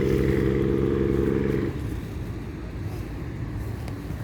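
A small engine running steadily at an even pitch, which stops abruptly about two seconds in and leaves a steady hiss.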